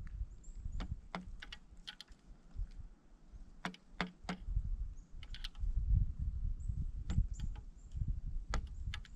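Pileated woodpecker pecking at a suet feeder: irregular sharp taps and clicks, often two or three close together, over a low rumble.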